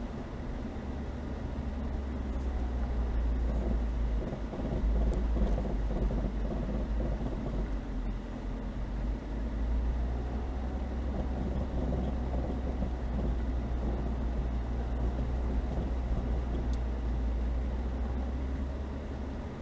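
Chevrolet Niva driving slowly through snow: the engine running under load with a steady low drone, swelling a few seconds in and easing briefly near halfway.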